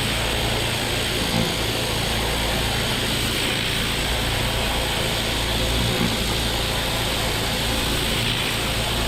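Pressure washer running steadily: a constant engine drone under the hiss of the high-pressure water spray.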